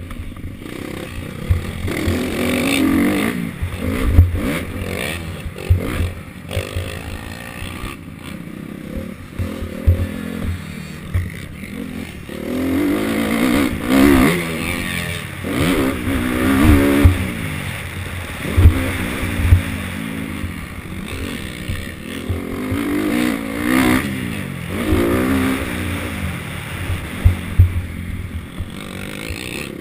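Motocross dirt bikes revving hard and easing off over and over as they ride the track, the engine pitch rising and falling every few seconds, with short low thumps throughout.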